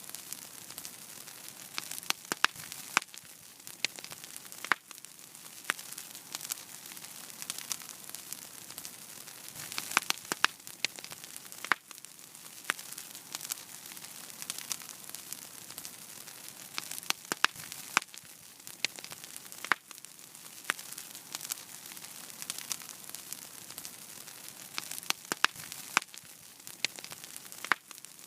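Wood fire burning in a fireplace: a steady soft hiss with irregular sharp crackles and pops, coming in small clusters every several seconds.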